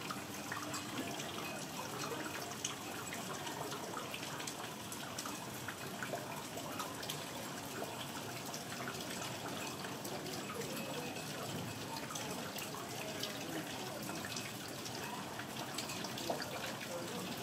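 Steady rain falling and dripping, a constant hiss full of small drop ticks, as a heavy downpour begins to let up.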